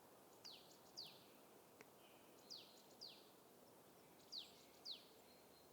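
Faint bird calls: three pairs of short chirps, each falling sharply in pitch, the pairs about two seconds apart, over a quiet background.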